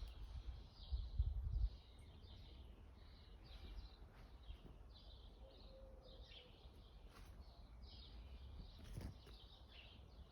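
Birds chirping, a steady stream of short, quick calls overlapping one another. A low rumble is loudest for the first couple of seconds, then fades.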